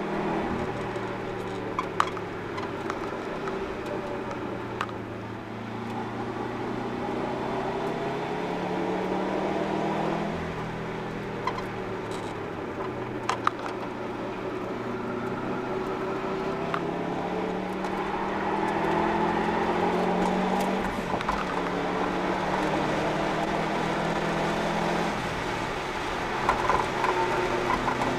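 Subaru Impreza WRX's turbocharged flat-four with an Invidia cat-back exhaust, heard from inside the cabin while driven hard on track. The engine note climbs as it pulls up through the revs and drops back between pulls, over road and tyre noise, with a few short sharp knocks.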